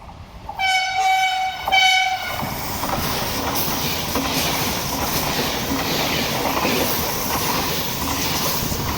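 Frecciarossa ETR 700 high-speed electric train sounding two horn blasts, a longer one and then a short one, and then passing at speed with a loud, steady rush of air and wheel noise.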